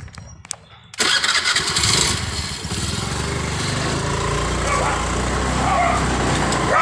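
A motorbike's petrol engine started about a second in, catching at once and settling into a steady idle, after a few small clicks.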